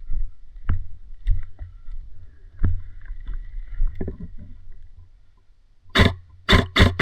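Irregular footsteps and gear knocking against a body-worn camera, then, about a second before the end, a quick run of five sharp cracks from airsoft guns firing.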